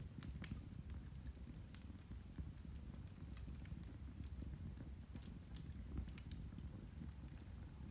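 Irish turf (peat) fire crackling: sparse sharp snaps and pops, roughly one or two a second, over a steady low rumble.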